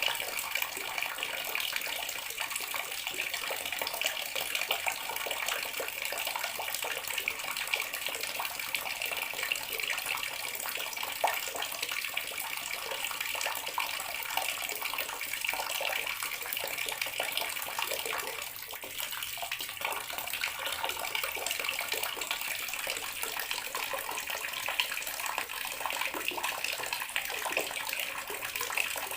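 Water running steadily from a tap into a bathroom sink, an even splashing hiss with a brief slight dip about two-thirds of the way through.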